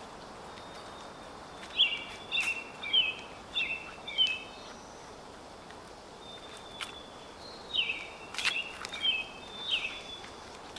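A songbird singing two short bouts of quick, repeated chirping notes, the first about two seconds in and the second near the end, over a steady outdoor hiss.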